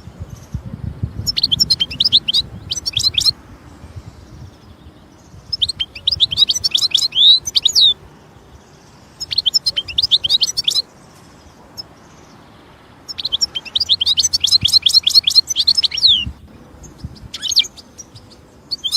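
European goldfinch singing: four bursts of rapid, high twittering song, each one to three seconds long with short pauses between them, and a single short note near the end.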